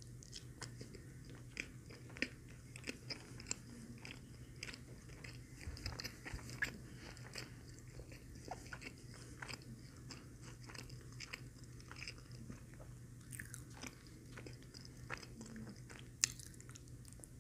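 Close-miked eating of a McDonald's Filet-O-Fish sandwich: bites into the soft bun and breaded fish patty, then steady chewing with wet mouth clicks and smacks. A sharper, louder bite comes near the end.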